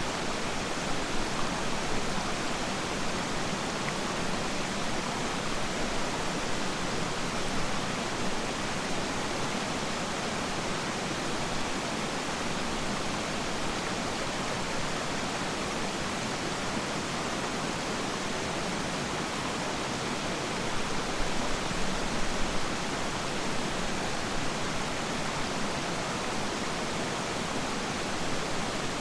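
Peiran Falls waterfall: a steady, even rush of falling water, briefly a little louder about three quarters of the way in.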